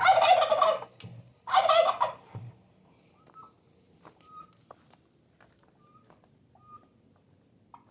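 A turkey gobbling twice in quick succession, each gobble a loud rapid warbling burst under a second long. Faint short chirps follow later.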